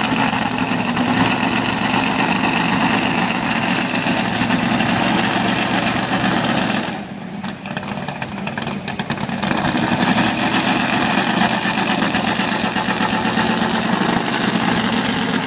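Pulling truck's engine running loud and steady, easing off for about a second around seven seconds in, then coming back up.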